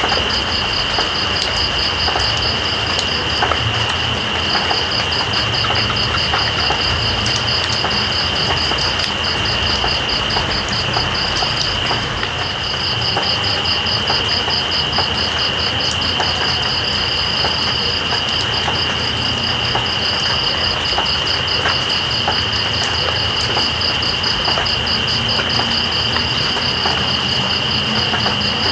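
Night insects calling over steady rain: one continuous high drone and, above it, a fast pulsing trill that breaks off briefly a few times. Beneath them, the even hiss of falling rain with scattered drop ticks.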